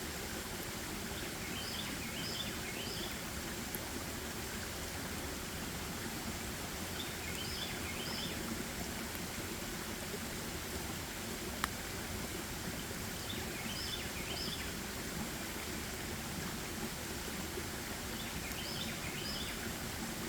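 A songbird singing a short phrase of quick high chirps four times, about every five and a half seconds, over a steady rushing background noise. One sharp click near the middle.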